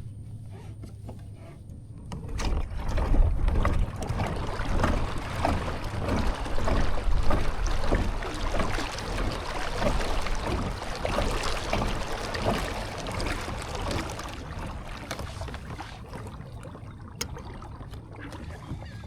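Water splashing and rushing against a fishing kayak's hull. It builds about two seconds in and fades away after about fourteen seconds, with a low rumble underneath.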